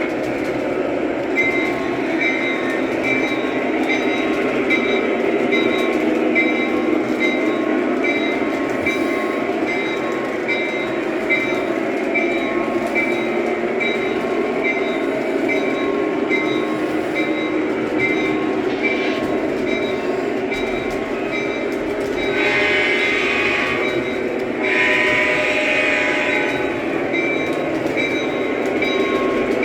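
A train running steadily, with a fast, even ticking over the rumble and two louder stretches near the end.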